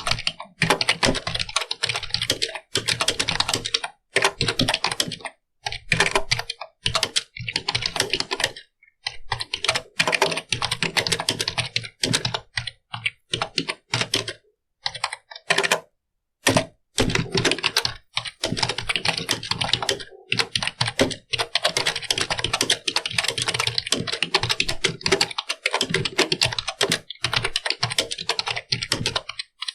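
Computer keyboard being typed on: fast runs of key clicks broken by short pauses, the longest about halfway through.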